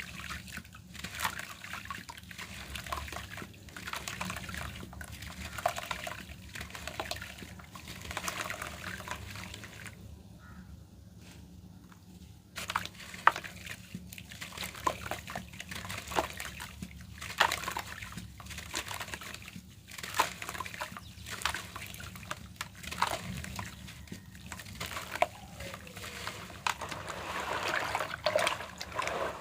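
Lumps of red dirt crumbling, a run of irregular crunchy crackles and falling grit, with a pause of about two seconds near the middle and one sharper crack just after it.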